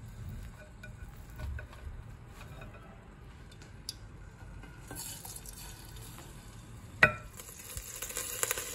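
Plantain slices frying in oil in a stainless steel pot, with light clicks of a slotted spoon against the pot. A faint sizzle comes in about five seconds in and grows, and there is one sharp knock about seven seconds in.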